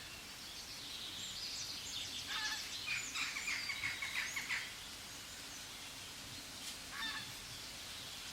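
Bird chirping: a quick run of high notes for about four seconds, then one short call near the end.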